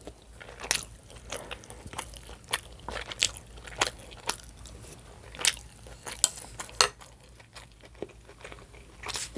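Close-miked chewing: irregular wet mouth smacks and crunches as food is bitten and chewed.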